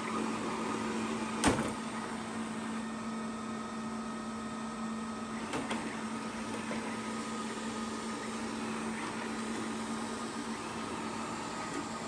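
Xiaomi Mi Robot Vacuum-Mop Essential running as it cleans: a steady motor hum with a higher whine over it. A sharp knock comes about a second and a half in, and a fainter click near the middle.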